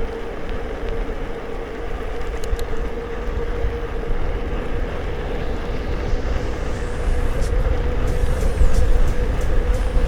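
Riding an electric mountain bike: wind rumbling on the microphone, a steady mid-pitched hum, and a few light clicks and rattles in the second half.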